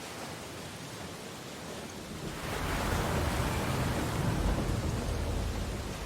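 Ocean surf on a beach: a steady hiss of wash, then a wave swells about two seconds in, breaks with a deep rumble and fades out toward the end.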